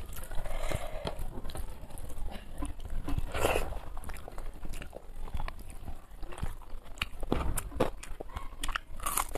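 Close-miked chewing and wet mouth clicks of a person eating a rice meal with fried fish by hand, with soft crunches and small sounds of fingers mixing rice on a plate.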